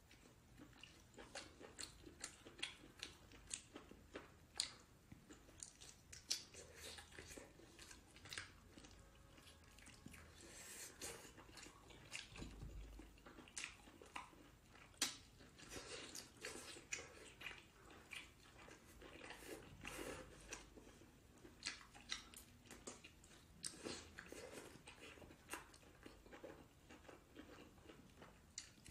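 Quiet, close chewing of braised octopus tentacles, with many short, irregular wet clicks and lip smacks.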